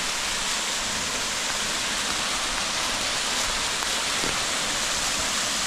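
Waterfall at close range: a steady, loud rush of falling water.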